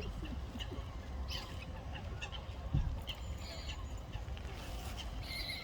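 Common moorhens calling: short, scattered high calls over a low steady rumble, with a dull thump about three seconds in.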